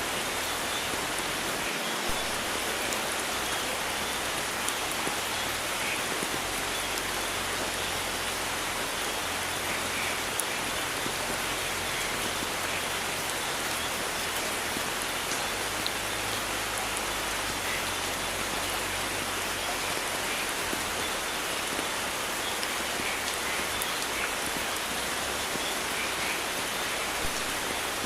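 Steady heavy rain falling, an even hiss with scattered faint patters of drops on surfaces.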